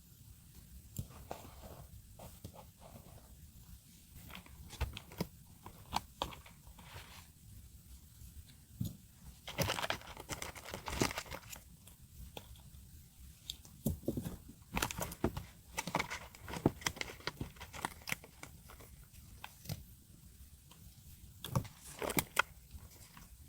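Paper crafting at close range: stickers and masking tape being peeled and torn, with paper crinkling and small taps in short, irregular bursts.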